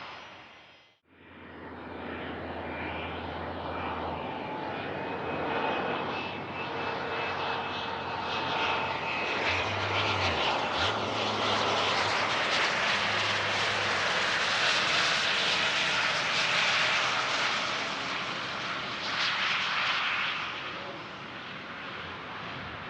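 Dassault Falcon 2000 business jet's engines with a thin turbine whine, swelling to a loud pass and then falling away near the end.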